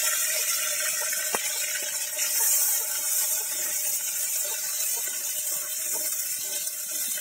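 Chopped shallots sizzling in hot oil in an earthenware clay pot: a steady hiss with scattered light crackles, stirred now and then with a wooden spatula.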